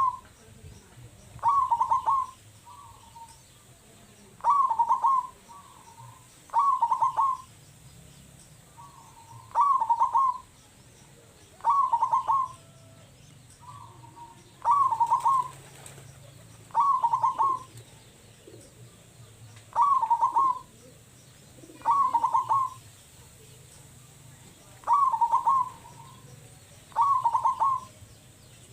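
A local zebra dove (perkutut) cooing over and over in a full, big voice: about a dozen short coo phrases, one every two to three seconds.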